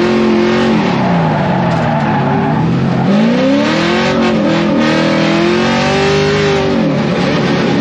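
Drift car engine revving hard under load, its pitch dropping in the first couple of seconds, climbing again about three seconds in, holding high, then falling near the end, over a steady rush of tyre and road noise.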